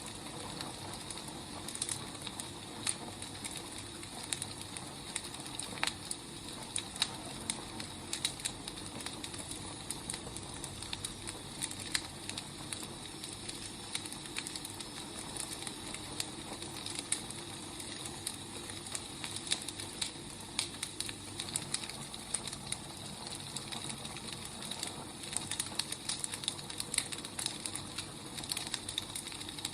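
Firewood burning: a steady hiss dotted with irregular crackles and pops.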